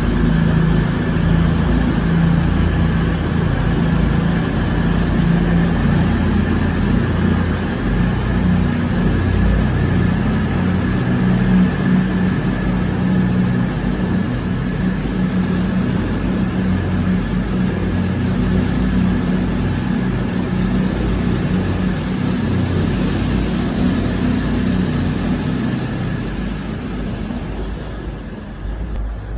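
Diesel train engine running steadily, a low hum with a faint steady high whine above it, easing down over the last couple of seconds.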